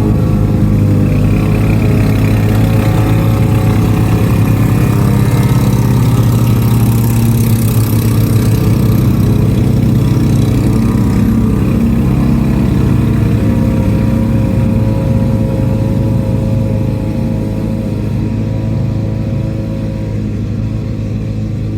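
Lawn-Boy two-stroke mower engine running steadily, easing off slightly in level near the end.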